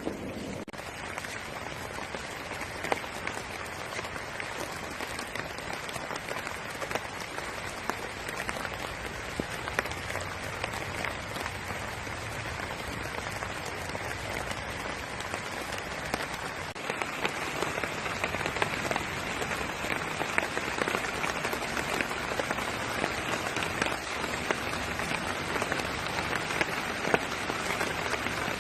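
Steady pattering of rain, many small drops ticking in an even hiss, growing louder about two-thirds of the way in.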